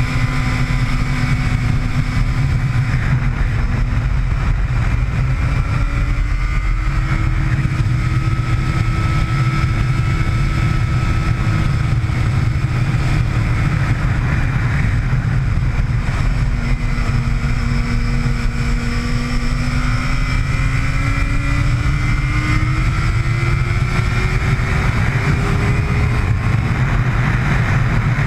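Motorcycle engine heard on board while lapping a race track, over a constant low rumble. The engine note climbs and drops slowly several times with throttle and gear changes, and rises highest in a long climb near the end.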